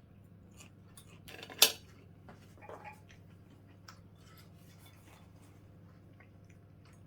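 Cutlery and a plate clinking while food is handled: scattered light taps, one sharp clatter about a second and a half in, and a short rattle near three seconds.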